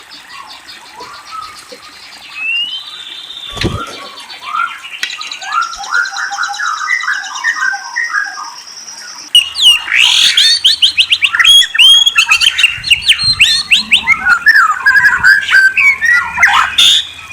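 Murai (Copsychus songbird) singing a varied song of whistles, trills and quick sweeping notes, growing much louder about nine seconds in. A brief low thump sounds about three and a half seconds in.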